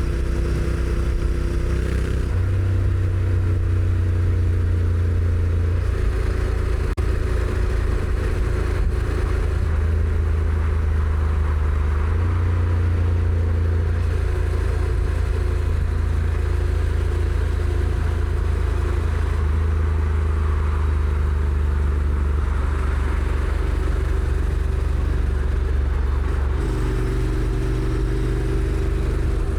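Honda NC750X's parallel-twin engine running under way, its note stepping up and down several times as the revs change, with a rush of wind and road noise over it.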